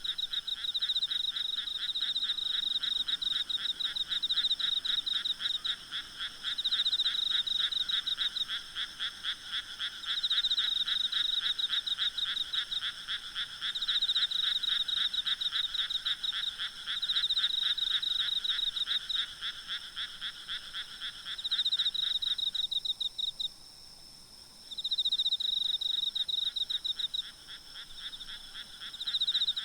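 Night chorus of frogs and insects in the countryside: fast pulsed trilling calls. A higher trill comes in repeated bouts of two to three seconds, over a lower steady trill that drops out about three-quarters of the way through.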